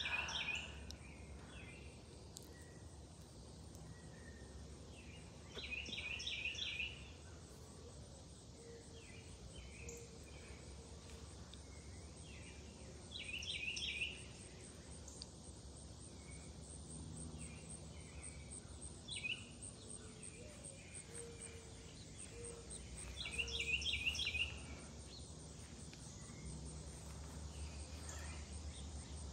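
A songbird singing a short phrase of quick, high chirping notes four times, several seconds apart, over steady low outdoor background noise.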